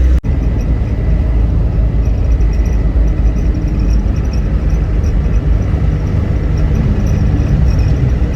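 Land Rover Defender 300Tdi turbodiesel engine and road noise heard inside the cab while driving at highway speed: a loud, steady low rumble. A brief cut in the sound comes a fraction of a second in.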